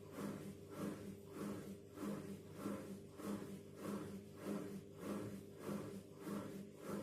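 Washing machine running with shoes in the drum: a motor hum that swells and fades in an even rhythm, a little under two pulses a second.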